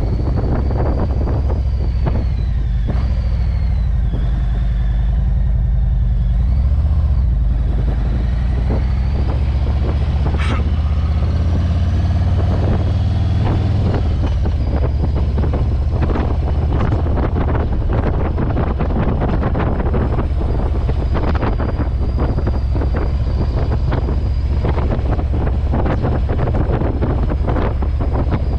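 Motorcycle engine running under way with wind buffeting the microphone: a steady low rumble with rough gusty noise, and a thin high whine above it that drifts up and down in pitch.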